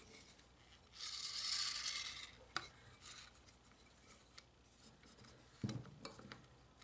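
Hand work on small gearbox parts: a scraping rub lasting about a second, then a sharp click, and later a dull knock followed by a few small clicks.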